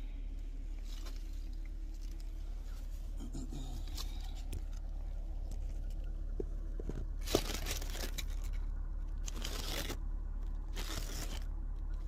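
Mercedes-Benz S430's 4.3-litre V8 idling steadily at the exhaust, a low even rumble. In the second half, loud bursts of rustling and crinkling cover it, with a sharp click about seven seconds in.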